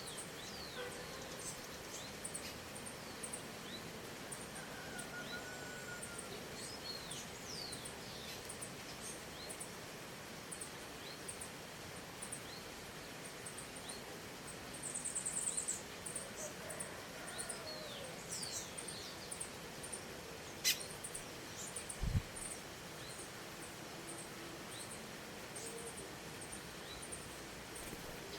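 Wild birds calling: many short, high, down-slurred whistles scattered throughout over a steady hiss of ambience and a regular high ticking. A brief buzzy trill comes about halfway, then a single click and a low thump about seven seconds before the end.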